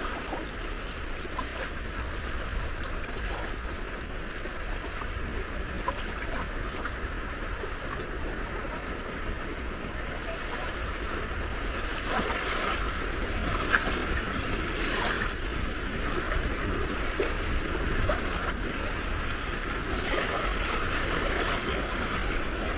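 Small sea waves washing and lapping at the shore: a steady wash of water with a low rumble underneath, growing a little louder about halfway through.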